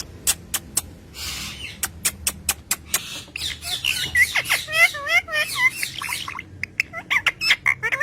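Green parrot vocalising: a run of sharp clicks with a brief hiss among them, then rapid warbling chirps and whistles.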